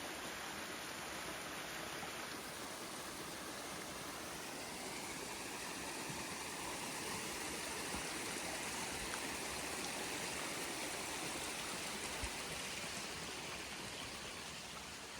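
Steady rush of running water, a little louder in the middle.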